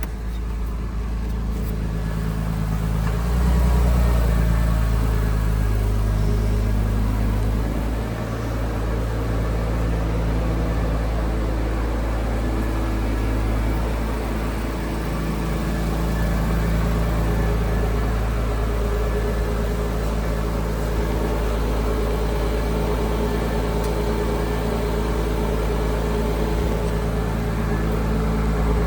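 2001 Porsche Boxster's 2.7-litre flat-six engine idling steadily, a little louder for a few seconds near the start.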